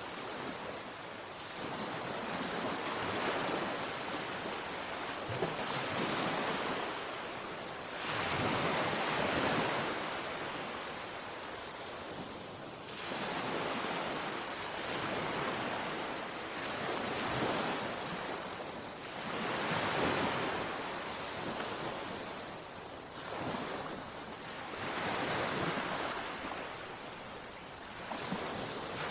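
Sea waves breaking and washing onto the shore, each surge swelling and fading about every three seconds.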